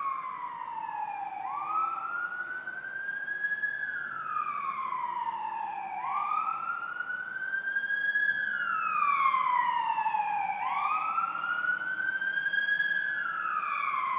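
Emergency vehicle siren on wail: a slow, repeated rise and fall in pitch, about three cycles of four to five seconds each.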